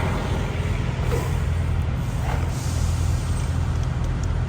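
Semi-truck engine running with a steady low drone.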